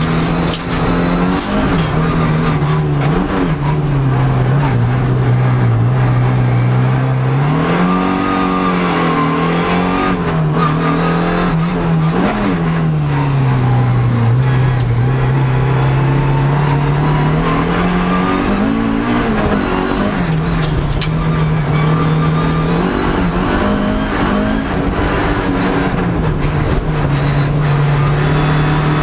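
Toyota MR2 (AW11) rallycross car's engine heard from inside the cockpit while lapping a circuit. It holds a steady pitch for long stretches and rises and falls several times as the driver comes on and off the throttle, with knocks and rattles from the car.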